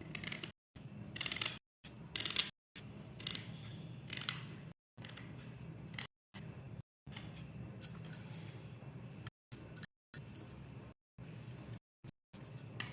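Short, crisp handling clicks and rustles over a low steady hum, broken every second or so by abrupt cuts to silence.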